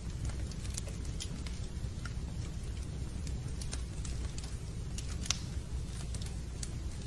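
Fireplace crackling: irregular small pops and snaps over a steady low rumble of the fire, with one sharper pop about five seconds in.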